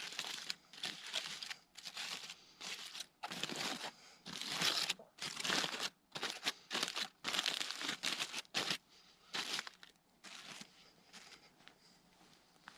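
Irregular crinkling and rustling in quick bursts, thinning out over the last few seconds.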